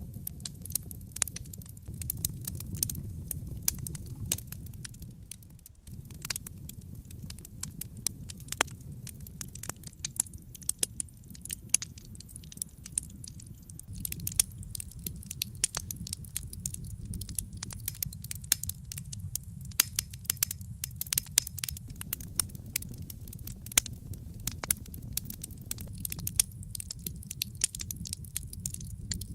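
Wood fire burning in a fireplace: constant crackling, with frequent sharp pops and snaps over a steady low rumble of the flames.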